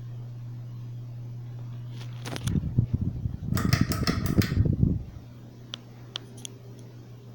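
Progress Lighting Airpro Builder ceiling fan motor humming steadily. About two seconds in, a loud clattering rattle starts and lasts roughly two and a half seconds, and a few light clicks follow.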